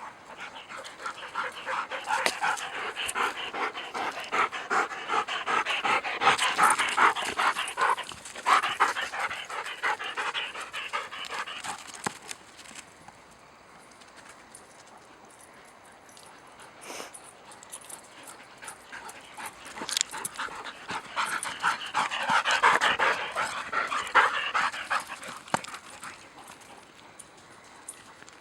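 Dog panting hard and fast after chasing a ball, in two long spells with a quieter stretch between.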